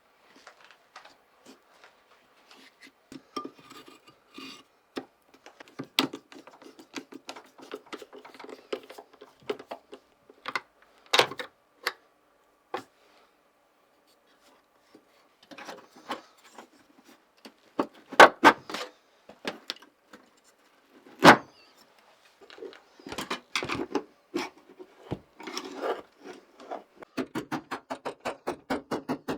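Handling and fitting of wooden and metal parts: scattered knocks, clicks and rubbing, with two louder knocks past the middle, then a quick run of light taps, about three a second, starting near the end.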